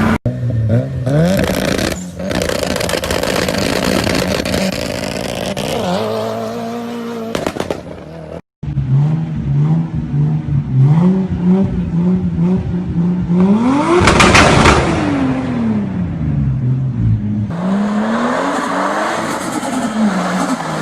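Several short clips of a turbocharged Toyota Supra straight-six's exhaust, spliced together: the engine is revved and accelerates with its pitch rising through the gears. About two-thirds of the way in, a car speeds past; its pitch climbs sharply and then drops away. There are hard cuts between clips and a brief dropout near the middle.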